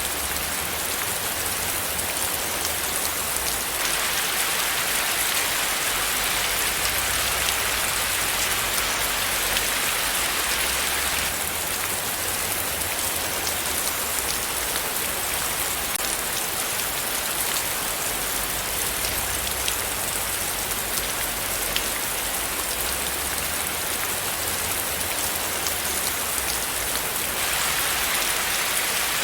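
Steady rain falling, a dense even hiss with many fine drop ticks, a little brighter for several seconds after about four seconds in and again near the end.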